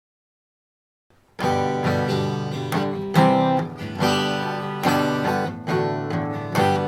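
Dead silence for about a second and a half, then an acoustic guitar strumming chords in a steady rhythm, the lead-in to a sung children's song.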